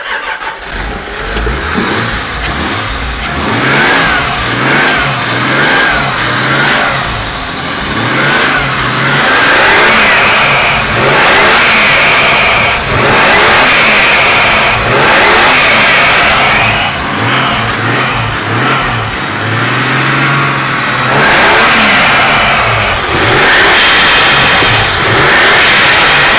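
Toyota 7M-GTE turbocharged straight-six running and being revved again and again, its pitch rising and falling every couple of seconds. The turbo spools up quickly and the blow-off valve vents as the throttle closes, from an engine that runs well.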